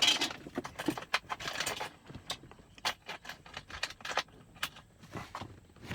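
Irregular light clicks and rattles of small parts being handled: LED bulbs and the plastic dome light housing being fitted by hand.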